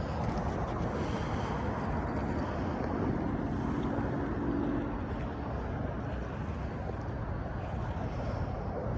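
Steady outdoor background noise, a low rumble and hiss, with a faint hum between about three and five seconds in.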